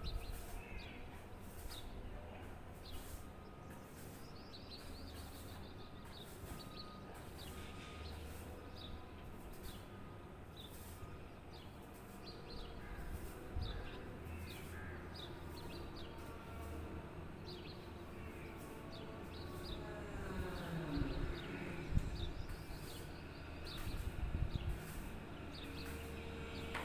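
Small birds chirping with short, high, repeated notes, over a low steady rumble.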